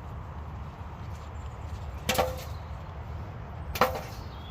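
Two sharp knocks about a second and a half apart, over a steady low rumble.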